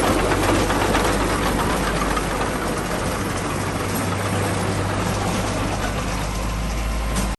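Heavy diesel engine of earthmoving machinery running steadily, with a deep low hum and a rough mechanical clatter. It cuts off suddenly at the very end.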